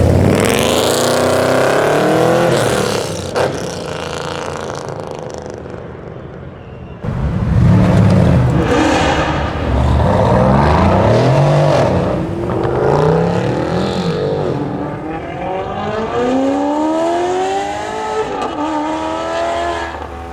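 Several sports and modified cars accelerating hard, one after another, their engine notes rising and dropping back at each gear change. A new car comes in suddenly and loudly about a third of the way through.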